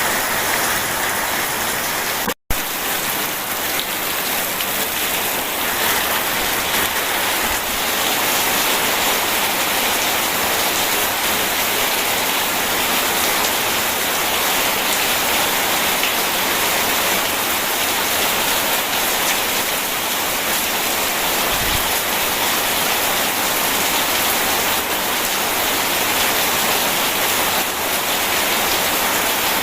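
Steady heavy rainfall, an even dense patter with no thunder heard. The sound drops out for an instant about two seconds in, then carries on unchanged.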